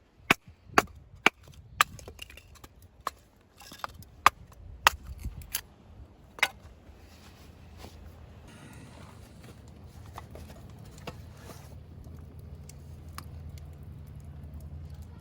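Firewood being chopped with a hatchet: about a dozen sharp wooden strikes, a little under two a second, stopping about six and a half seconds in. A faint low steady hum follows.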